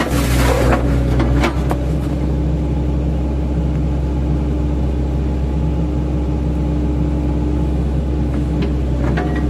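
Diesel engine of an 8-ton class excavator running steadily. At the start, and again at the very end, its bucket crunches and scrapes through oil palm trunk as the welded-on chipping blades chop it.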